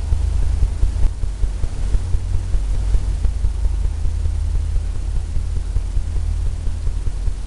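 Bristle brush tapping paint onto a stretched canvas, heard as a rapid run of dull, low thumps.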